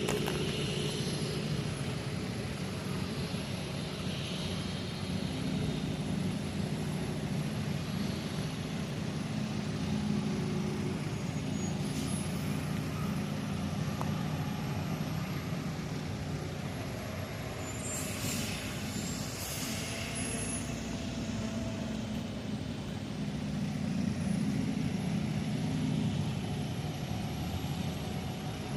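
Heavy diesel harvest machinery running steadily, with a constant low engine hum and a thin high whine. A couple of short hisses come about two-thirds of the way in.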